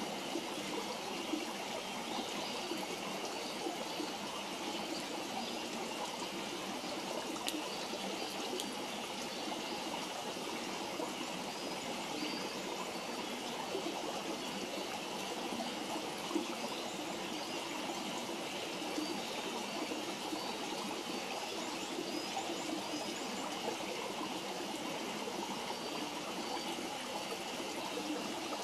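Steady rushing of running water, like a small stream, with a few faint sharp pops from the campfire.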